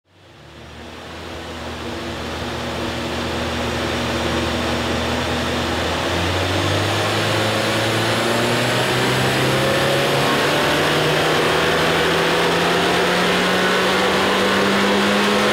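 Toyota Celica GT4 ST205's turbocharged 3S-GTE four-cylinder engine running with its wheels coupled to a Dynapack hub dyno. It fades in over the first few seconds, runs steadily, then from about six seconds in its revs climb steadily and smoothly, as in a dyno pull.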